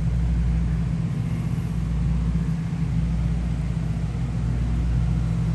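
A motor running steadily with an unchanging low hum.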